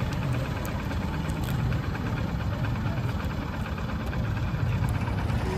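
Motorcycle engine idling steadily, with an even low putter.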